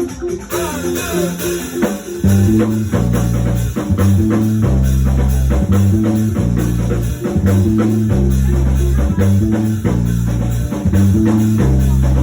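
Live band music with bass guitar, electric guitar and drum kit playing a steady beat.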